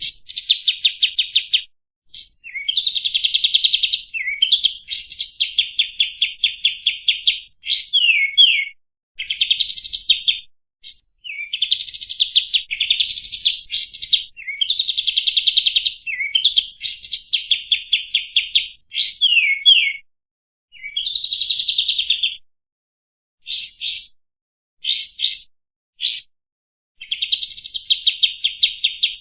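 Kapas tembak, a bulbul, singing a loud, fast chattering song: rapid trills of repeated high notes in phrases of one to two seconds, with quick sharp notes and short pauses between phrases.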